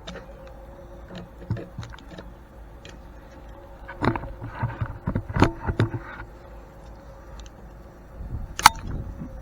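Hand tools knocking and clinking against the grain mill's cast-iron bearing housing over a steady hum. The knocks cluster together about four to six seconds in, and one sharp strike comes near the end.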